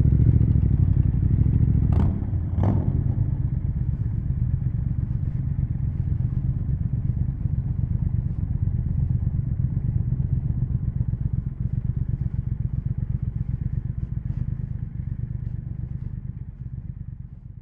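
Triumph Speed Twin 1200's parallel-twin engine dropping back about two seconds in and settling into a steady, pulsing idle-like beat. Two sharp clicks come in quick succession as it drops back, and the sound fades out near the end.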